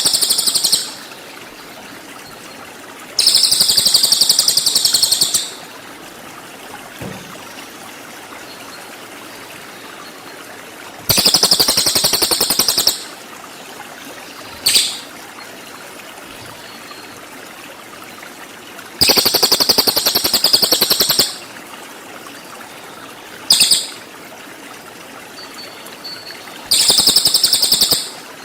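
Cililin songbird giving rapid, shrill, buzzy trills (the 'tembakan' shot calls used to train murai batu), in bursts of about two seconds every few seconds with a couple of short chips between, over a steady trickling-water background.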